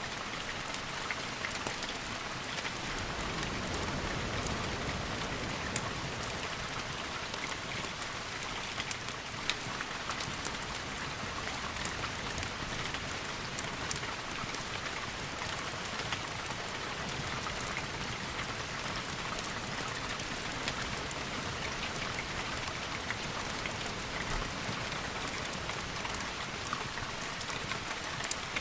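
Steady rain falling on a surface, with scattered sharp ticks throughout.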